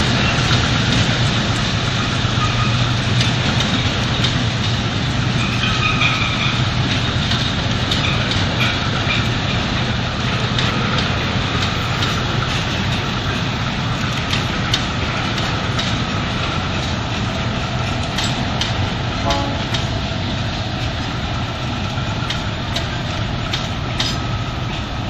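Freight train passing: several diesel-electric locomotives' engines drone steadily while the wheels of rail-laden flatcars click rapidly over the track. Faint high squeal from the wheels comes and goes.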